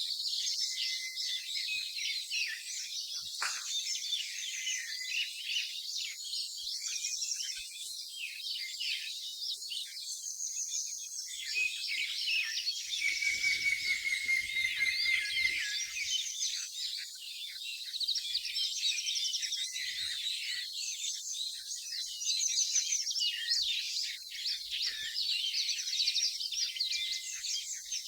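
Several small birds chirping, trilling and whistling at once in a wooded area, with many overlapping high calls and one longer whistled note about halfway through.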